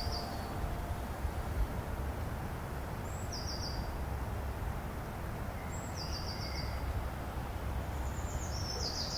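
A songbird repeating a short, high trilled phrase every two to three seconds, the last one longer and falling in pitch, over a steady low outdoor rumble.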